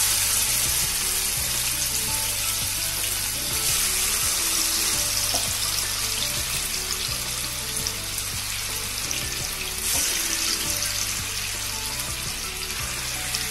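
Marinated chicken pieces sizzling in hot oil in a pan: a steady frying hiss. Background music plays underneath.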